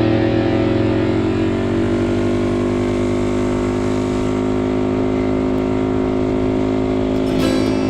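Small mini bike engine running at steady high revs, its note holding nearly constant. Sharp ticks start near the end.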